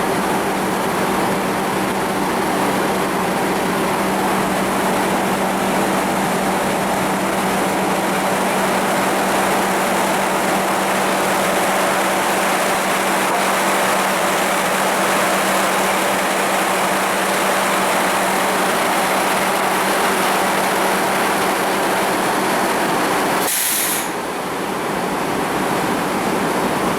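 Sawmill machinery running steadily: a constant hum under a loud mechanical rush, with a short dip near the end.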